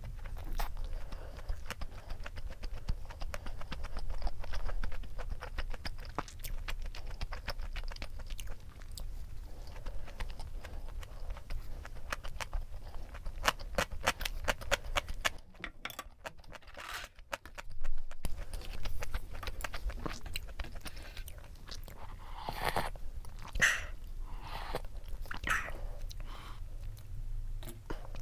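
Chewing of inari sushi, soft rice in fried tofu pouches topped with tuna mayo: many small wet mouth clicks. Around the middle there is crisp crunching of yellow pickled radish. Toward the end come a few louder sips of udon broth.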